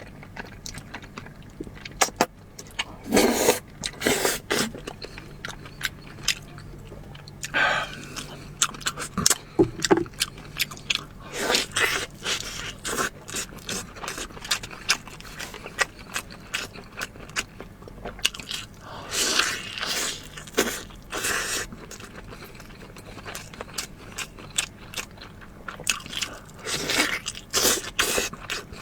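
Close-miked eating sounds: irregular sharp clicks and short noisy bursts of chewing and biting, with scraping of food being handled.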